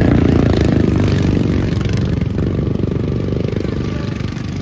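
Racing lawnmower engines running hard as the pack goes by, loudest at first and then slowly fading as they pull away.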